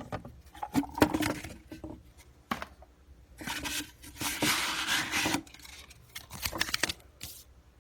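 A mail package being opened by hand: scattered taps and knocks of handling, with a longer rip of packaging about three and a half seconds in.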